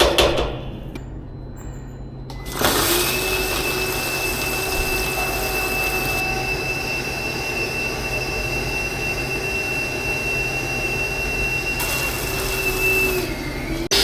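A motor-driven machine starts about two and a half seconds in and runs steadily with a hiss and a constant high whine, which dips slightly just before it cuts off near the end.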